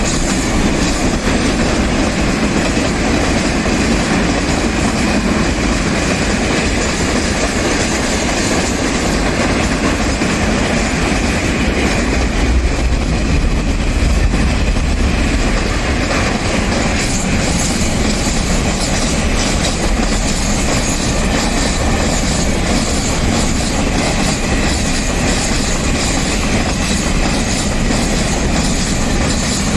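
A train passing close by, its wheels clattering steadily over the rails, loud and even throughout.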